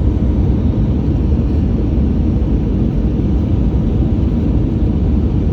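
Steady low rumble inside an Airbus A320's cabin on approach, from airflow and its IAE V2500 turbofan engines, with no distinct tones.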